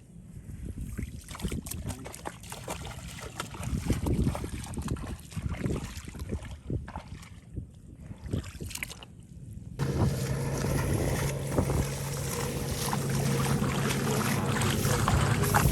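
Irregular knocks and splashy noise, then about ten seconds in a small engine starts and runs steadily with a low hum.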